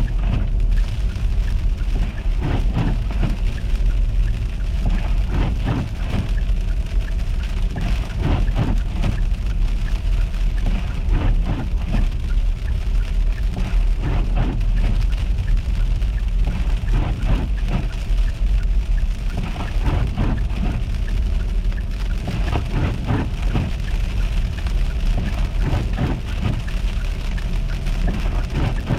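A steady low rumble of a car moving along a winter road, with frequent irregular crackles and ticks over it.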